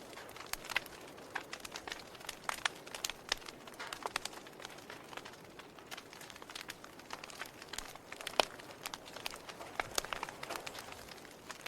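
Wood fire crackling: irregular sharp pops and snaps over a faint steady hiss, the loudest snap about eight and a half seconds in.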